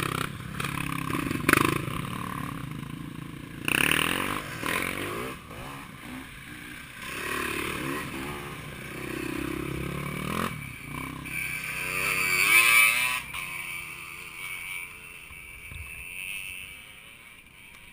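Motocross bikes' engines revving and passing, their pitch rising and falling in repeated swells. The loudest pass comes about twelve to thirteen seconds in, and the sound fades toward the end.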